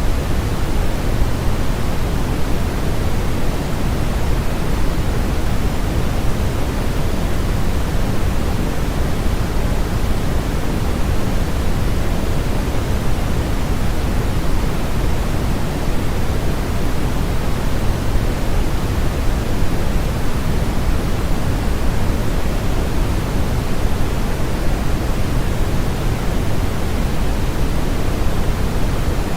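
Steady electronic noise of a sleep-aid track, sold as white noise: an even, unchanging hiss with most of its weight in the low end, giving it a deeper, rushing sound.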